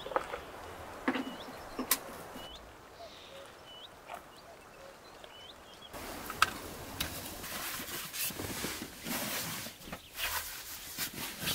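A bird repeating a short, upward-flicking chirp about once a second, with a few sharp clicks. About six seconds in, this gives way to the rustle and irregular clicking of power cords and a plug adapter being handled on a quilted mattress.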